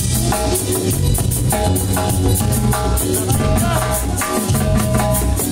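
A live band playing an instrumental passage of a Latin dance tune: sustained chords over drum kit and percussion, keeping a steady beat.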